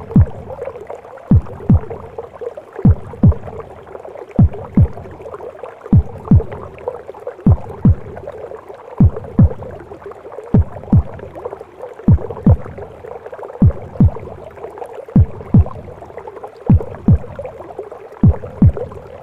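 Womb sounds: a heartbeat of paired low thumps, lub-dub, about every one and a half seconds, over a steady whooshing, gurgling rush.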